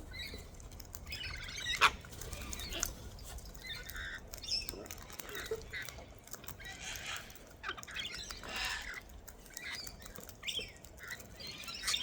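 Wild cockatoos feeding: irregular crunching, pecking and scuffling sounds, with one sharp knock about two seconds in.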